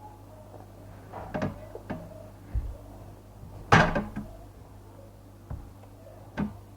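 Several separate knocks and clunks of objects being handled, the loudest a little under four seconds in.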